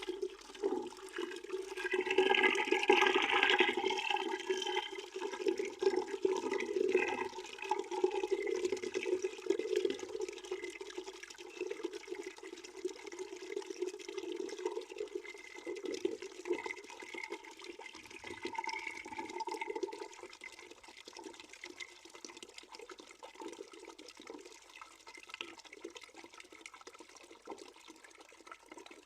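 Water pouring into a bucket in a continuous, uneven stream, louder a couple of seconds in and then growing gradually quieter toward the end.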